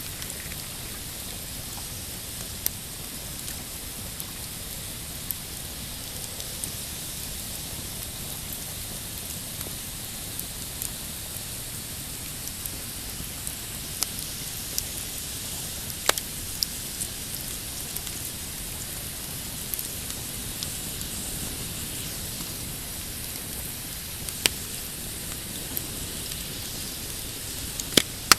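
Pine-wood campfire crackling, a steady hiss dotted with sharp pops, the loudest about sixteen seconds in and just before the end. Waves lap on a rocky shore underneath.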